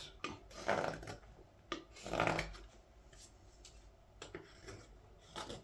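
Carving knife paring shavings from a green-wood ladle, a few separate scraping cuts, the strongest near the start and about two seconds in, then lighter scrapes and clicks. The wood is being thinned and deepened where it is still too thick.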